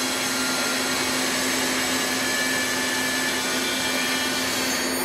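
Sub spindle of a Citizen M20 CNC Swiss-type lathe spinning at 6,000 rpm, a steady high whine over a constant machine hum. Near the end the high tones cut out.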